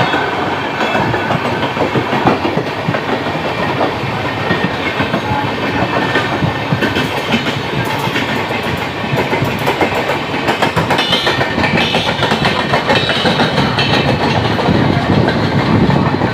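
Passenger trains running at speed on parallel tracks: a steady rumble with the clickety-clack of wheels over rail joints, heard from aboard one of the trains, growing a little louder and harsher for the last few seconds.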